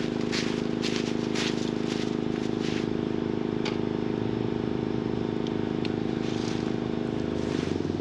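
An engine running steadily with an even drone that cuts off shortly before the end, with a few faint ticks over it in the first half.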